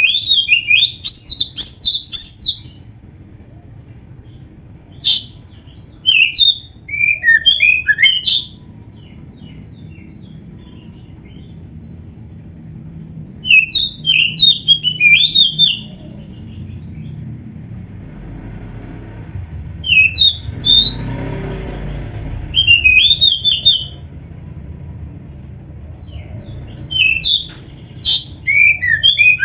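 Oriental magpie-robin (kacer) singing in five loud bursts of rapid, varied, whistled and chattering phrases, with pauses of a few seconds between them. The phrases include mimicked fills of other birds' song.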